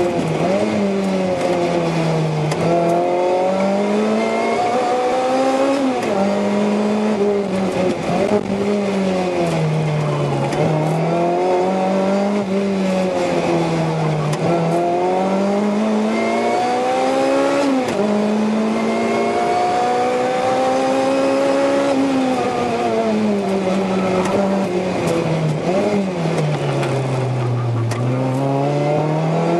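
Supercharged 1.8-litre four-cylinder (Toyota 2ZZ-GE) of a 2007 Lotus Exige S driven hard, heard from inside the cabin. The engine note repeatedly climbs under acceleration, drops sharply at each gear change and falls away under braking before rising again.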